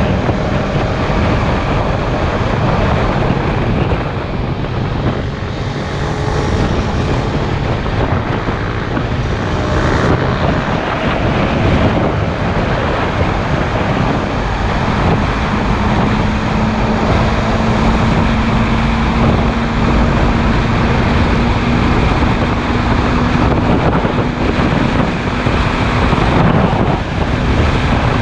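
Motorcycle engine running at speed under heavy wind noise on the microphone. The engine's pitch shifts during the first several seconds, then holds steady from about halfway through.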